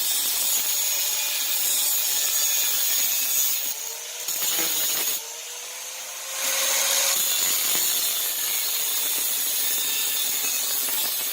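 Angle grinder working steel stock, a steady rasping grind with a high whine. A little before halfway the grinding noise drops away for about two seconds while the motor's tone keeps running and rises, as the disc comes off the work, then the grind resumes.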